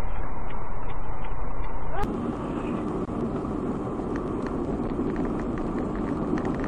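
Dashcam recording of a car's engine and road noise from inside the cabin. About two seconds in it cuts abruptly to another recording with quieter, hissier road noise and light ticking.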